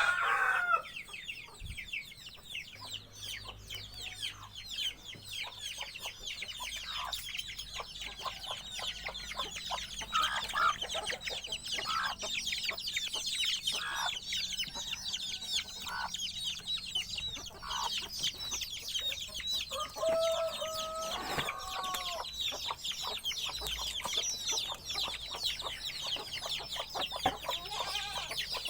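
Dense chorus of many wild birds chirping rapidly and high, with chickens clucking now and then at a lower pitch and a longer, stronger call about two-thirds of the way through.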